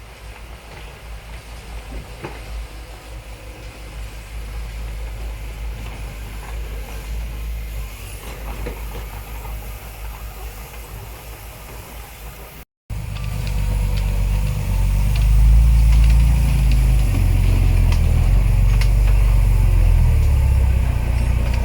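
Heavy diesel engine of earthmoving machinery running with a low rumble. After a brief cut about two-thirds in, the engine is much louder and its rumble pulses unevenly.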